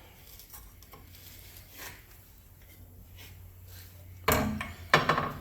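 Faint rustling and light clicks of tools being handled, then about four seconds in a propane torch is lit with a sudden loud hiss, followed by a sharp spike of noise.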